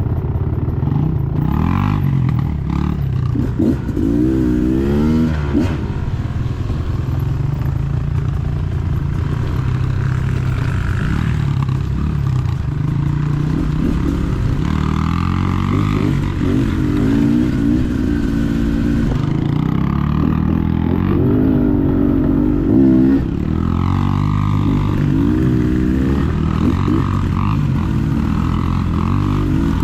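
Dirt bike engine running under load on a trail ride, the revs repeatedly rising and falling as the throttle opens and closes, with some rattling from the bike.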